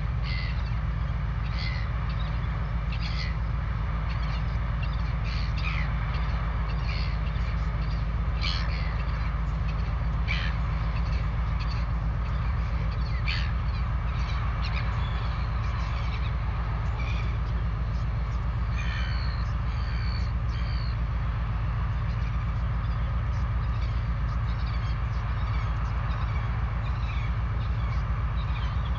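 Wild birds calling in short, sharp notes, many in quick succession over the first twenty seconds and only a few after, over a steady low hum.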